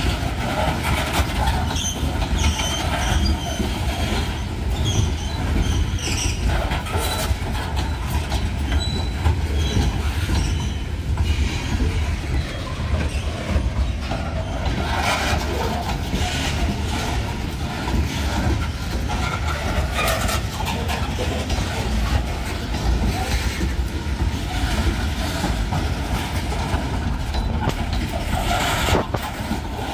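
Freight train of open-top hopper cars rolling past close by: a steady rumble of steel wheels on rail with frequent clicks of the wheels over rail joints, and a few faint high wheel squeals.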